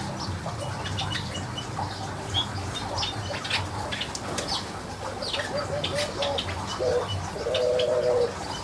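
Birds in an aviary: many short chirps and clicks with wing fluttering, and a dove cooing low and steady near the end.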